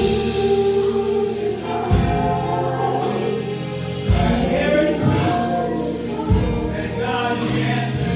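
Gospel choir singing with instrumental backing, the low accompaniment changing notes about every two seconds.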